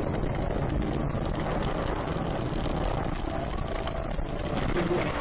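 Steady vehicle noise: engine and road rumble, with no single standout event.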